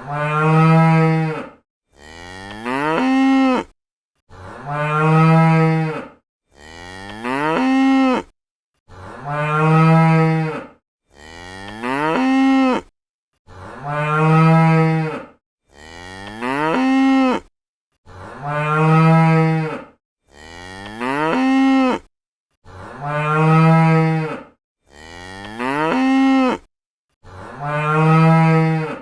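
Cow mooing again and again: about a dozen moos, each a second or two long with short silences between, alternating a louder, deeper moo and a softer one.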